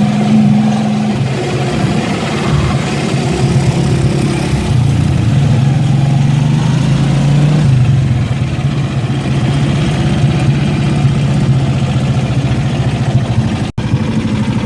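An engine running loudly, its pitch shifting up and down a few times, with a momentary dropout near the end.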